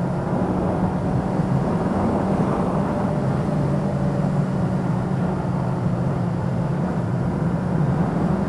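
Motorcycle engine running steadily under way, with a broad rush of wind and road noise. The engine note changes slightly about three seconds in.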